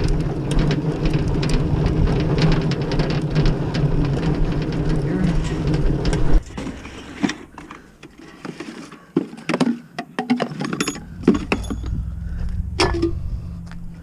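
A vehicle engine running steadily, then cutting off abruptly about six seconds in. After that come scattered clinks and knocks of objects being handled, with a low hum returning later on.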